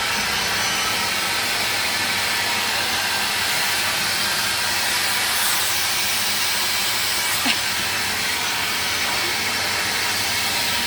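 Household vacuum cleaner running steadily with a constant whooshing hiss.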